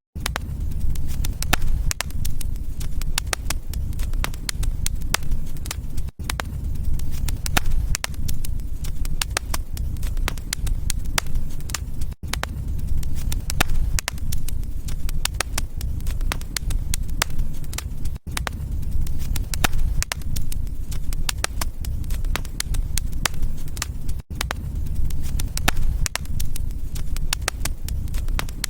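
Fire in a fireplace crackling and popping steadily over a low rumble of flames. The sound cuts out for an instant about every six seconds.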